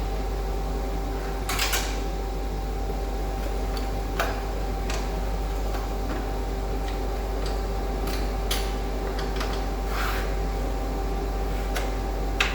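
Scattered light clicks and clatter of hard objects being handled, a handful over several seconds, over a steady electrical hum.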